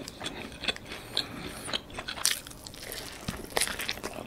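A person biting and chewing toasted sourdough grilled cheese dipped in tomato soup, close to the microphone, with a run of crisp crunches and mouth clicks; the loudest crunches come a little past halfway and near the end.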